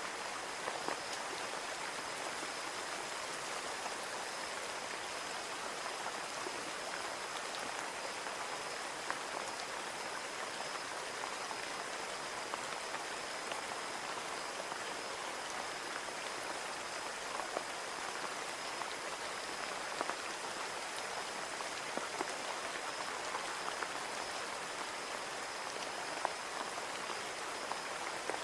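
Steady rain on a window pane: an even hiss with single drops tapping here and there.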